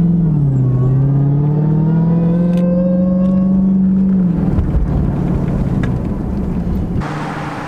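Car engine pulling under acceleration, its pitch climbing slowly for about four seconds and then falling off as the throttle is let off. A rushing hiss of wind and road noise comes in near the end.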